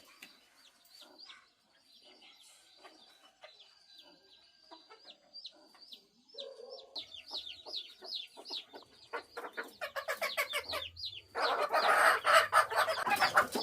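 Chickens calling: a run of short, high calls, each falling in pitch, repeated quickly and building up, loudest and busiest in the last couple of seconds.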